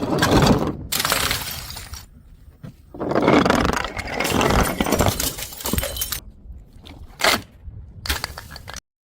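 Glass breaking and crunching in a series of about six separate crashes, each cut off abruptly, the way edited clips are joined.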